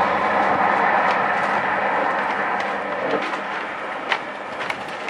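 Train passing at speed and receding: a steady rush of wheels on the rails that fades away, with a few sharp clicks in the second half.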